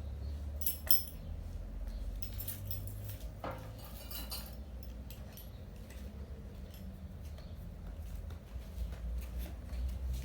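Scattered light metallic clinks and clicks over a steady low rumble, most of them in the first half.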